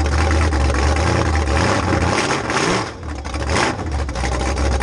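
Figure-8 race car engines running hard at speed: a loud, steady drone with a short rising rev and a brief dip in level about three seconds in.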